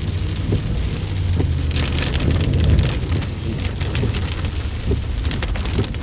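Car driving on a rain-soaked, flooded road, heard from inside the cabin: a steady low road-and-engine rumble, with rain and road water pattering on the car. The patter picks up about two seconds in.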